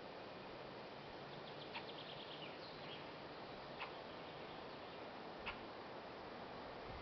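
Faint outdoor background hiss with a few short, high bird chirps: a quick run of ticking notes about two seconds in, then single sharp chirps about four and five and a half seconds in.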